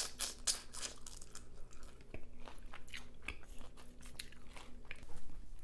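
Close-miked eating of a seafood boil: biting and chewing with irregular crunches and wet mouth clicks, several a second.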